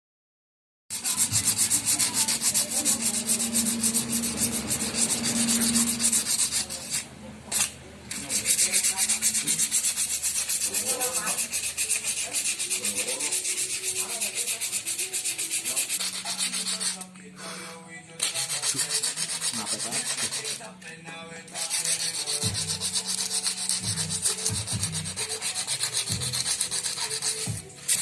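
Sandpaper being worked over a motorcycle frame: a steady scratchy scrubbing that starts about a second in and pauses briefly a few times.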